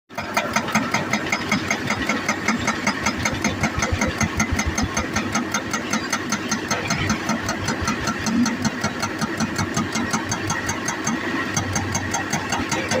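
Hydraulic rock breaker on a JCB 205 excavator hammering rock in a rapid, even rhythm of blows, with the excavator's diesel engine running underneath.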